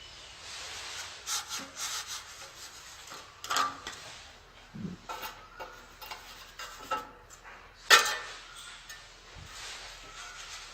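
Hand tiling work: repeated scraping and rubbing strokes with scattered sharp clicks and knocks, the loudest a single sharp knock about eight seconds in.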